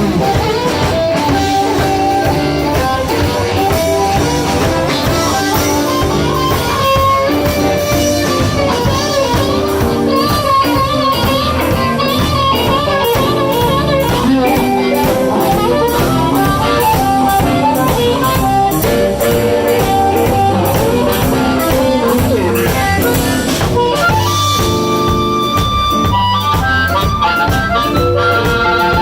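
Blues band playing live, an instrumental stretch with a wavering melodic lead line over steady drums and bass.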